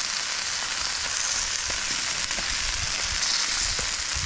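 Vegetables and a pizza crust sizzling on a Blackstone flat-top griddle: a steady frying hiss with scattered small crackles.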